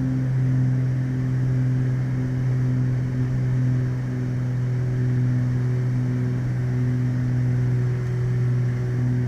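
Beechcraft Baron's twin Continental IO-550 six-cylinder piston engines at takeoff and climb power, a steady drone.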